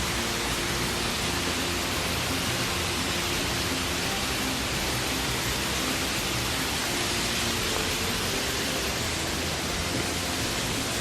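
Waterfall rushing: a steady, even roar of falling water that does not let up.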